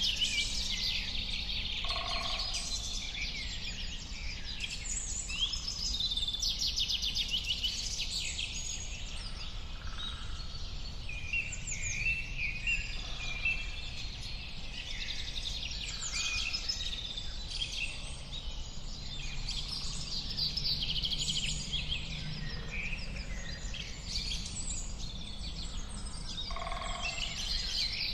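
A chorus of many small birds chirping and singing at once, with quick trills and calls overlapping, over a steady low background rumble.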